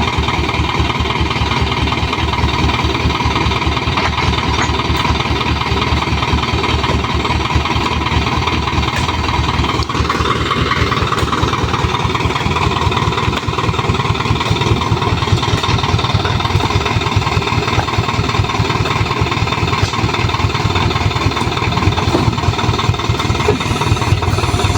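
Toyota Dyna dump truck's diesel engine running steadily at idle, with a rapid low pulsing.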